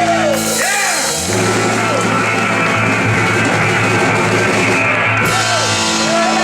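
Live rock and roll band with electric guitar, bass and drum kit playing the big finish of a song: cymbals crash about a third of a second in, and a long chord is held and rings until near the end.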